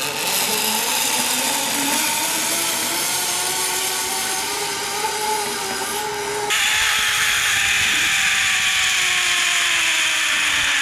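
Zip-line trolley pulleys whirring along a steel cable, with a whine that slowly rises and then falls as the rider's speed changes. The whirr gets louder and brighter about six and a half seconds in.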